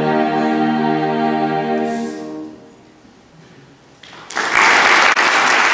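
A choir holds a final sustained chord that stops about two and a half seconds in and fades away in the room's reverberation. About a second and a half later the audience starts applauding loudly.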